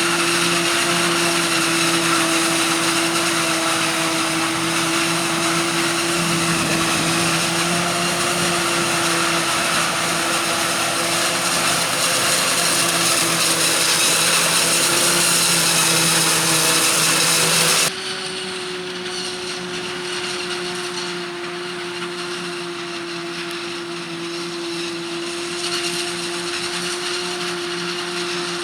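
Claas Jaguar 840 forage harvester chopping maize: a loud, steady high-pitched whine with a strong hum under it. About eighteen seconds in the sound drops suddenly to a quieter, duller whine at nearly the same pitch, which runs steadily on.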